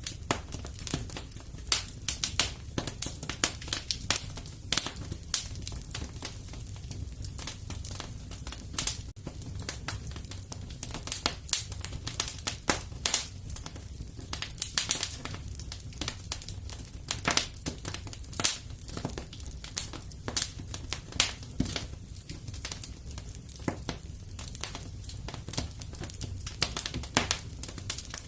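Fire in a fireplace crackling: irregular sharp pops and snaps, several a second, over a steady low rumble.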